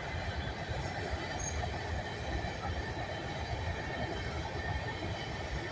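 Coal train cars rolling past, a steady rumble of steel wheels on the rails from a quiet-running train.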